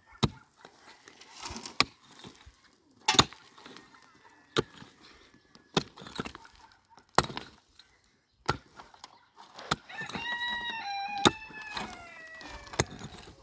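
Sharp, heavy tool strikes at a steady pace, about one every second and a half, during roof work. Between the strikes, near the end, a high drawn-out call slowly falls in pitch.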